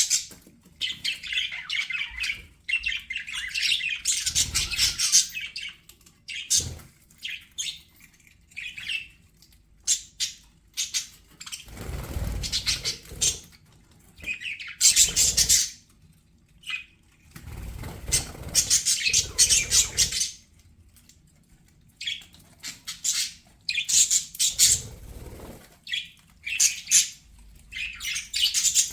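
Budgerigars chirping and warbling in quick bursts of chatter with short pauses between them.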